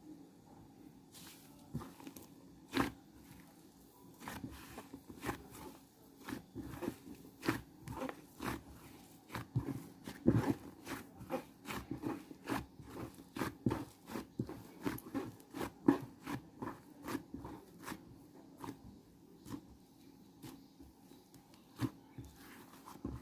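Something crunching and chewing food, in a long irregular series of short crisp bites, about one to three a second.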